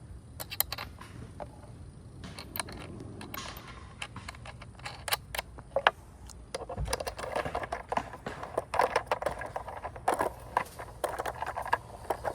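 Metal skateboard truck parts clicking, clinking and scraping as the truck is taken apart and put back together to turn a chewed-up bushing around. The clicks are scattered at first, then come thick and rattling for the second half.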